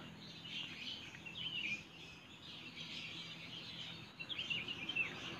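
Small birds chirping, with runs of quick high chirps about half a second in, just before two seconds and again after four seconds.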